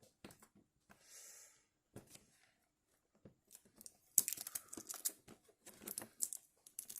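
A Nendoroid figure box being opened by hand: scattered clicks and taps of the cardboard and plastic packaging, then a denser run of crinkling and rustling from about four seconds in.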